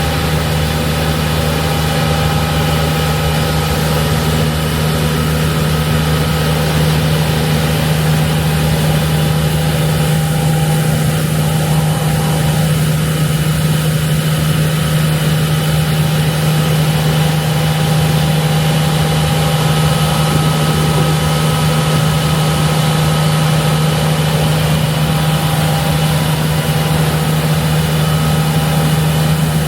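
Heavy diesel machinery running at a steady speed, a loud constant drone that does not rise or fall.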